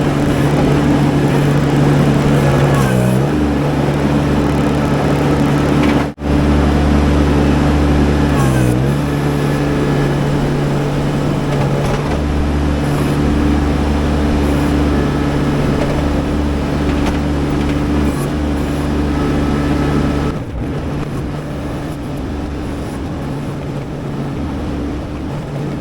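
Baumalight TRL620D mini skid steer's engine running at high, steady speed. Its pitch dips briefly and recovers twice, about 3 and 9 seconds in, as it is loaded.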